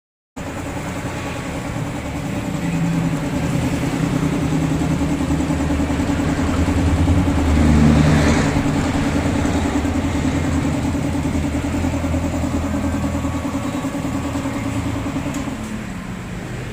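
Benelli Motobi 200 Evo's single-cylinder engine running through an aftermarket OBK exhaust. It swells louder about eight seconds in, then eases off gradually.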